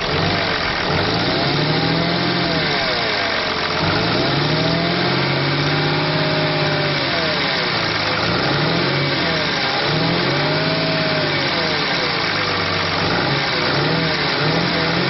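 2011 Dodge Ram 2500's 6.7 liter Cummins turbo diesel inline-six running, revved up and back down again and again, roughly every two seconds.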